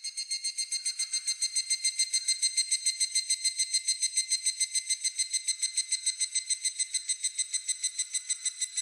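Higurashi (evening cicada) calling: a fast, even train of clear, high pulses, about eight a second, that swells quickly at the start and tails off near the end.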